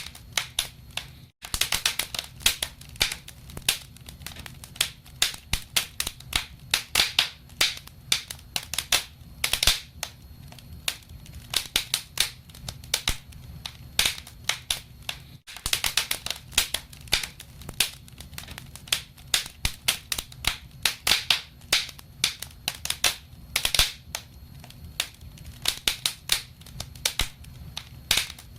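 Wood fire burning in a fireplace, crackling with irregular sharp pops and snaps over a low steady rumble. The sound drops out for an instant twice, about a second in and about halfway through.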